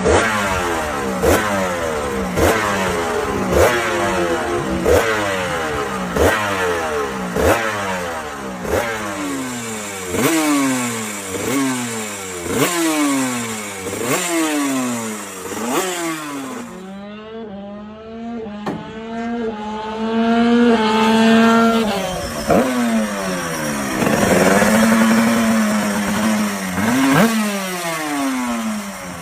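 KTM 125cc Grand Prix racing motorcycle's single-cylinder two-stroke engine being revved in quick blips, about one a second, each rising sharply and falling back. Midway it is held at higher, climbing revs for several seconds, then blipped again.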